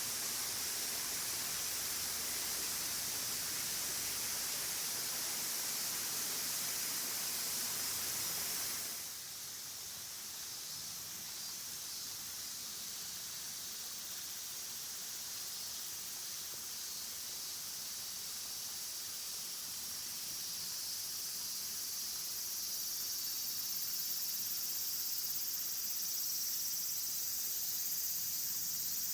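The even rush of a waterfall, which cuts off abruptly about nine seconds in. After it comes a steady, high-pitched chirring of insects, growing a little louder toward the end.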